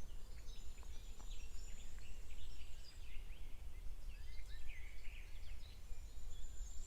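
Several small birds chirping and twittering in quick, overlapping short calls, over a steady low rumble of outdoor background noise.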